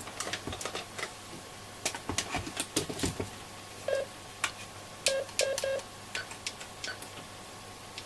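Plastic clicks and knocks as the AOR AR-2002 scanner receiver's front panel is fitted and its keys are pressed. Short keypad beeps come from the receiver, one about four seconds in and then four in quick succession.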